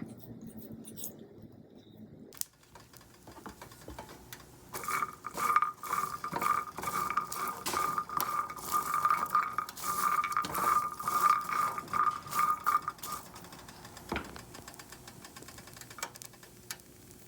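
Clinking and clattering of tableware: many quick knocks and clinks, with a steady high tone over several seconds in the middle.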